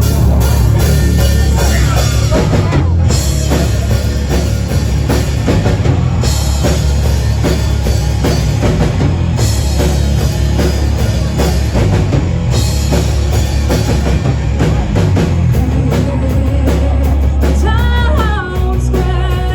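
Live rock band playing loud and dense: drum kit, bass guitar and electric guitar, with short full-band accents about every three seconds. Near the end a single melodic line bends in pitch and then holds steady notes.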